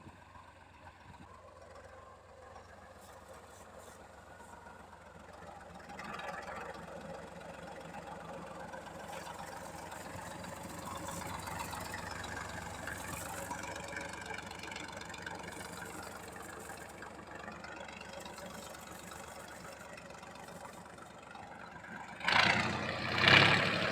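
T-150 crawler tractor's YaMZ-236 V6 diesel engine running, its pitch wavering as the revs shift. It grows louder about six seconds in, and a much louder burst comes near the end.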